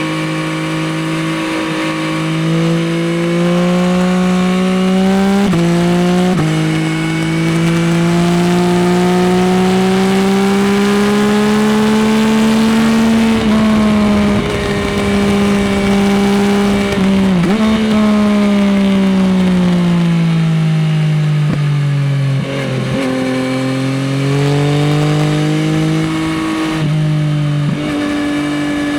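Yamaha XSR900's three-cylinder CP3 engine through an Akrapovič exhaust, heard from the rider's seat while riding. The engine note climbs steadily through the gears, with quick gear changes breaking it about five and six seconds in and again near the middle. It then falls away as the bike slows and picks up again near the end.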